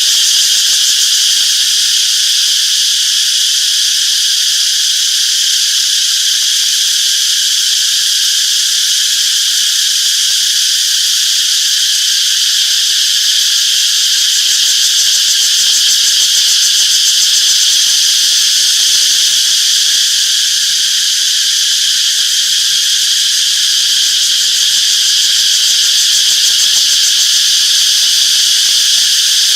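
Cicadas singing in a continuous, steady high-pitched chorus with no breaks.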